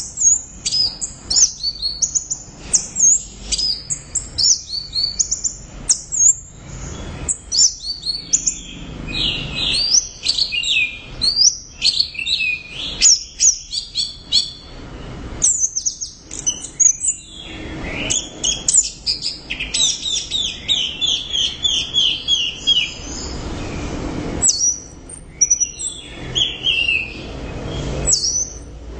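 Orange-headed thrush (anis merah) singing at length, a fast, unbroken stream of high chirps, whistles and trills with runs of quickly repeated notes.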